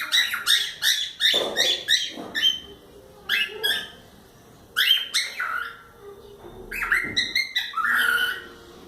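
Pet cockatiels chirping in quick, high repeated calls, in about four bursts with short pauses between.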